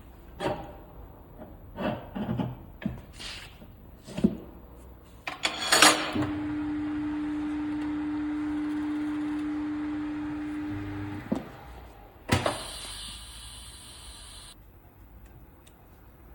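Tyre-shop workshop sounds: clattering knocks and a loud clank, then a machine motor runs with a steady hum for about five seconds and stops. A sharp knock follows, with about two seconds of hissing air.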